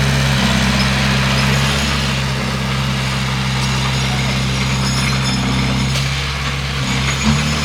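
Bulldozer's diesel engine running steadily, its pitch dipping and then stepping back up near the end, with a short knock about seven seconds in.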